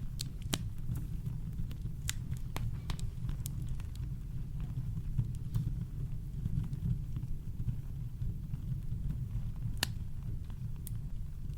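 Campfire crackling: scattered sharp pops and snaps, with a strong one near the end, over a steady deep rumble of brown noise.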